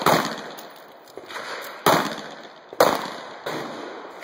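Scattered gunshots tailing off after a volley, each a sharp crack with a decaying echo: one at the start, one about two seconds in, another just under three seconds in, then a softer one.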